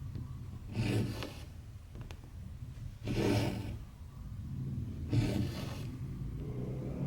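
Embroidery thread being drawn through cross-stitch fabric: a rasping swish about every two seconds, three times, over a steady low hum.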